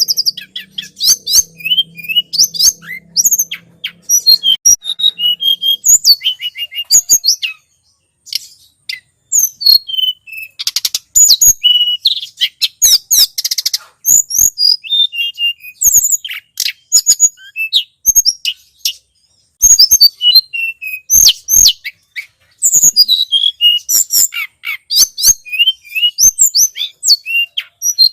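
Tledekan gunung (a mountain flowerpecker) calling: a rapid stream of high, sharp chirps and short whistled glides in dense bursts with brief pauses, played as a bird-lure recording. A faint low hum sits under the first six seconds.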